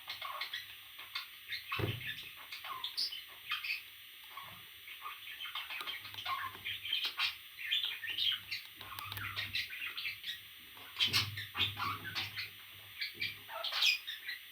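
Pet parrot chirping and chattering in many quick, high, short calls, with a few sharp clicks mixed in.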